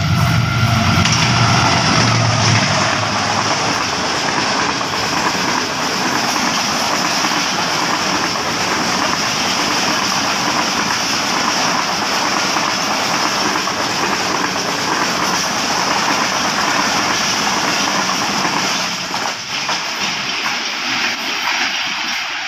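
A Pakistan Railways GEU-40 diesel-electric locomotive passes at speed, its engine heard in the first couple of seconds. After it comes the long, steady rush of passenger coaches running over the rails, which eases off near the end as the train draws away.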